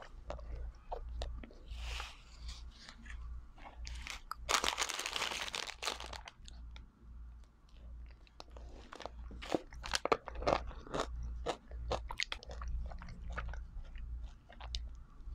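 Close-miked crunching and chewing of an ice cream cone with a crisp wafer cone, the bites coming in irregular clusters and busiest about nine to eleven seconds in. A longer rustling crinkle of snack wrappers being handled comes about five seconds in, under a steady low hum.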